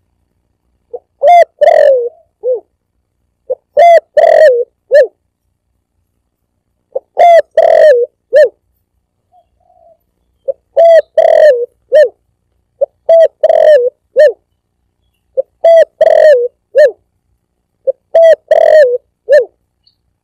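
Spotted dove (tekukur) cooing its song over and over, seven loud phrases about every two and a half seconds, each a short note, two longer warbling coos and a clipped final note. It is a recorded lure call played to draw doves in.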